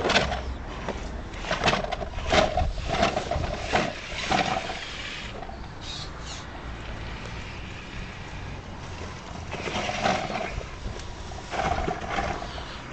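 Radio-controlled rock crawler's electric motor and gears whining in repeated short bursts as it is driven, with scattered knocks and clatters in between.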